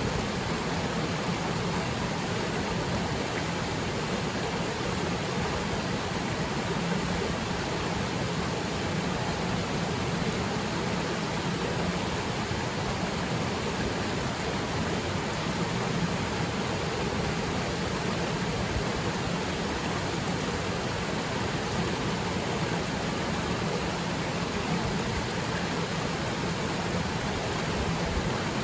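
Waterfall pouring steadily, an even, unchanging rush of falling water.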